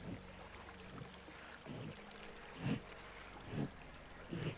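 Small stream trickling and gurgling, with short louder gurgles about once a second in the second half.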